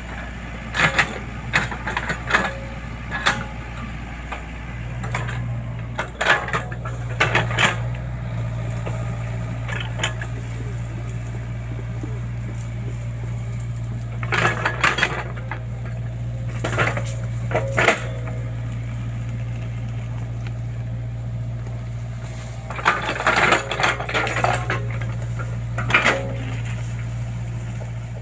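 Hydraulic excavator engine running steadily, with bursts of clatter, knocks and cracks at irregular intervals as the bucket digs and moves earth and woody debris.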